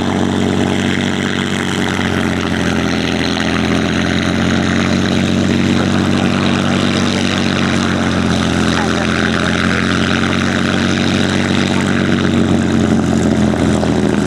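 Piston engine of a propeller warbird running steadily at idle or low power, a constant deep drone.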